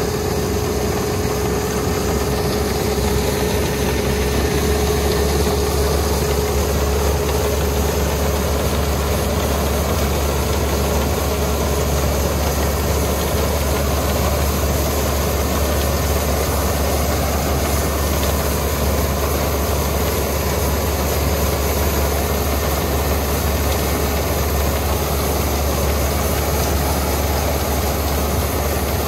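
Engine of a rice combine harvester running steadily, with a steady whine that fades out in the first ten seconds or so.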